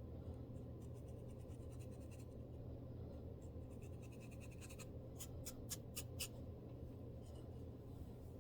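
Dry scratching and scraping at a scalp to loosen dandruff: a stream of fine scratches, with a quick run of about five sharper strokes a little past the middle, over a faint low hum.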